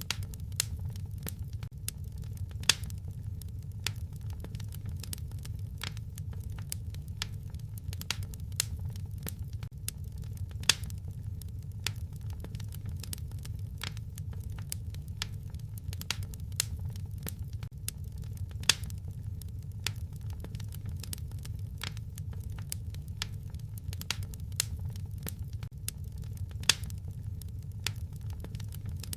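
Fireplace fire crackling: a steady low rumble of flames with frequent, irregular sharp pops and snaps, a few of them louder.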